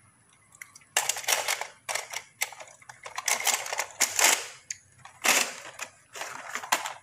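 Die-cast toy cars clattering and clinking against one another in a plastic storage drawer as a hand drops one in and rummages through the pile: a run of rattling clacks starting about a second in.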